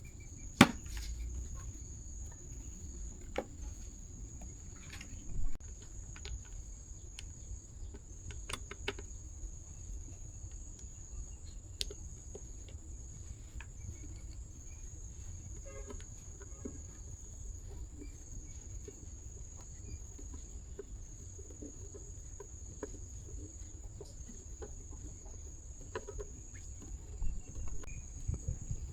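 Steady high-pitched chirring of crickets, with scattered light clicks and taps and a sharper knock about half a second in.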